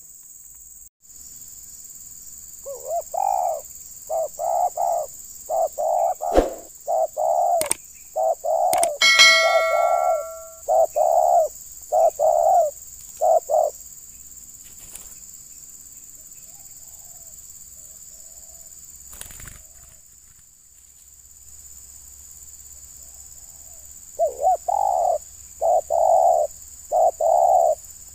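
Spotted dove (terkukur) cooing: a run of about a dozen low, evenly repeated coo notes, a long pause, then another run near the end. A short metallic ding rings about nine seconds in.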